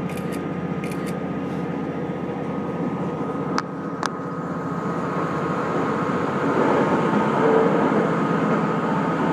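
Diesel railcar running, heard from inside the passenger cabin: a steady engine drone with wheel and rail rumble, and two sharp clicks about half a second apart a little past three and a half seconds in. The running noise grows louder in the second half as the train enters a tunnel.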